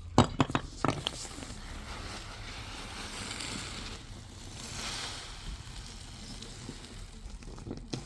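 A quick run of sharp knocks in the first second, then a soft rushing noise, like wind or moving water, that swells twice.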